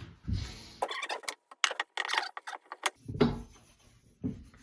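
Close handling noises: a quick run of sharp clicks and crackles for about two seconds, then a couple of dull thumps.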